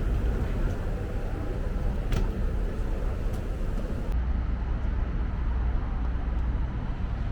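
Steady low rumble of vehicle noise, with a single sharp click about two seconds in; just after four seconds the sound changes abruptly and turns duller, as at an edit cut.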